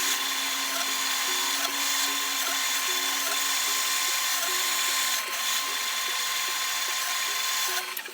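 A power tool running steadily, a noisy hiss-like machine sound that stops sharply near the end, over faint background music with a steady beat.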